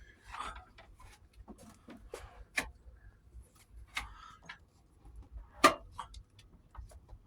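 Scattered light clicks and taps at an uneven pace, with one sharp, much louder knock a little past halfway.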